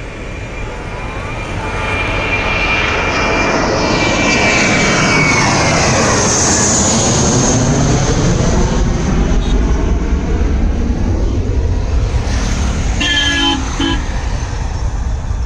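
Jet airliner's engines during takeoff: a high whine falls steadily in pitch over several seconds while the engine noise swells and stays loud, as the aircraft passes by. A short horn honk sounds near the end.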